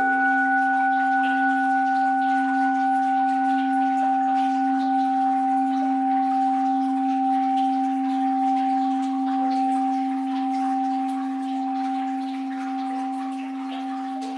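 An orin (Japanese Buddhist bowl bell), struck just before, rings on with a low hum and two higher overtones, wavering gently as it slowly fades. A faint wash of flowing water lies beneath it.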